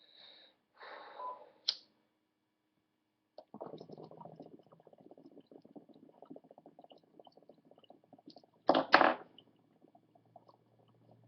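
Water bubbling rapidly in a two-foot glass bong with a crown percolator as smoke is drawn through it, starting about three and a half seconds in. Two short, louder bursts of noise come near the nine-second mark.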